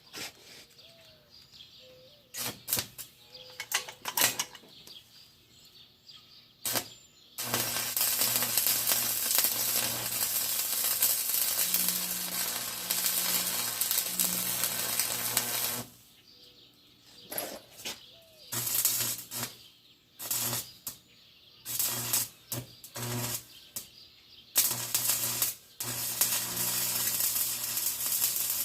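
Electric arc welding: the arc crackles and sizzles in one long run of about eight seconds, then in several short bursts, and again in a longer run near the end, with a low hum while it burns.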